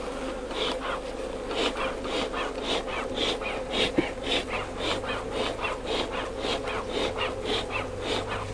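Bee smoker's bellows being pumped, a quick regular run of short puffs of air, about three a second, over the steady hum of honeybees at the open hive.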